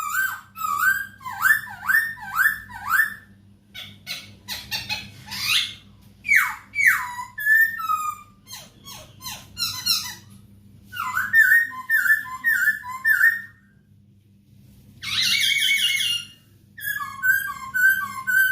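Masked laughingthrush (poksay Hongkong) singing: rapid, repeated whistled phrases and sweeping glides, pausing briefly about three-quarters through before starting again.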